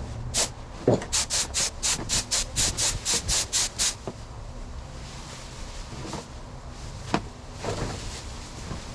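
Paint spray gun spitting paint in a quick run of short hissing bursts, about four a second, that stops about four seconds in. The broken spray pattern is a sign of the paint cup running low. A fainter hiss and a few knocks follow.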